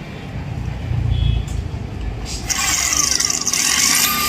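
A low rumble about a second in, then an electric drill starts up about halfway through with a loud high-pitched whine, drilling out the rivets that hold the end cover on a Two Brothers tarmac exhaust silencer.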